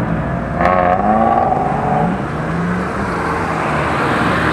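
Car engine running and revving, its pitch rising and falling, over a steady rush of noise, with a brief higher wavering tone about a second in.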